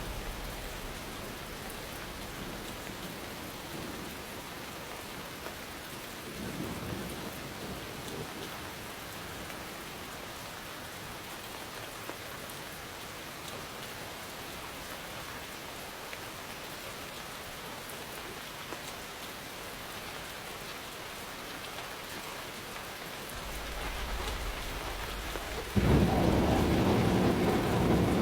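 Steady rain falling, with a faint roll of thunder about six seconds in. Near the end thunder builds and then breaks into a loud, sudden rumble.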